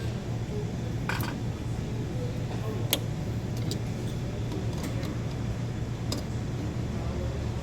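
A few sharp metallic clinks of hand tools and parts being handled, over a steady low hum.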